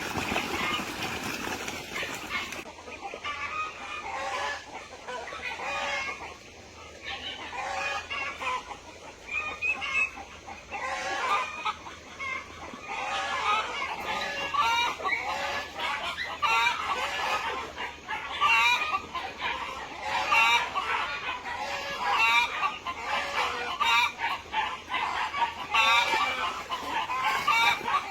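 A flock of chickens clucking and cackling, with many short calls overlapping. The calls grow busier and louder in the second half.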